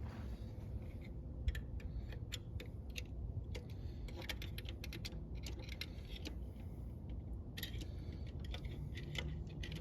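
Light metallic clicks and clinks of hand tools and hub parts being handled while a wheel hub is taken apart for its bearing, coming in scattered clusters over a steady low hum.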